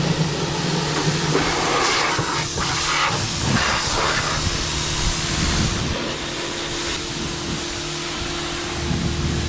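Pressure washer spraying water onto a golf cart engine, a steady hiss of spray with a constant pump hum underneath.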